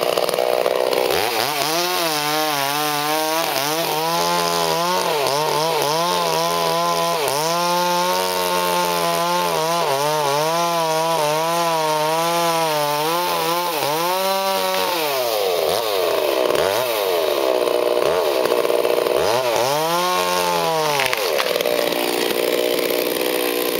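Chainsaw running hard through a cut, its engine pitch sagging and wavering under load, then a few deep drops and rises of the throttle near the end before it runs high again.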